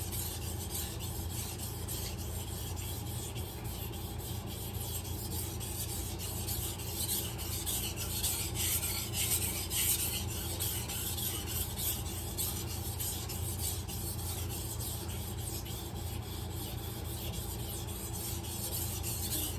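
Steel kitchen knife blade pushed stroke after stroke across a wet whetstone: a steady, gritty scraping as the second side of the edge is sharpened.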